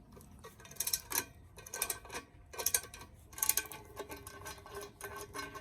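Steel bolt hardware and a wrench clinking and ticking while a nut and bolt are taken off a bench vise mount, a string of irregular clicks, each with a short metallic ring.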